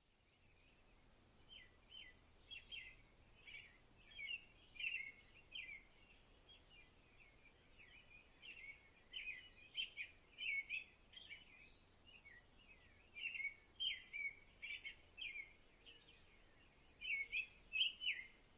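Birds chirping: many short, high calls repeated one after another, faint, starting about a second and a half in.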